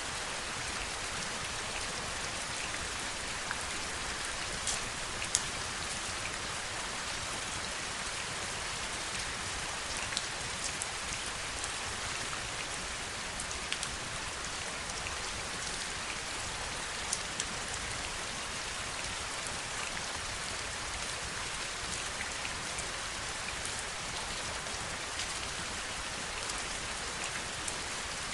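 Steady rainfall, a continuous hiss of rain with individual drops ticking sharply now and then.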